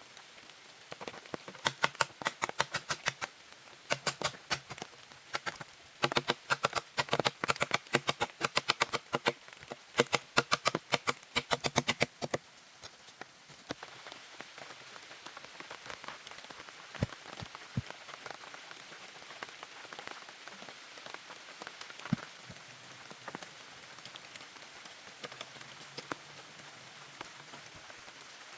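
A rapid run of sharp knocks, several a second, for about the first twelve seconds, then a steady patter of rain with an occasional drip.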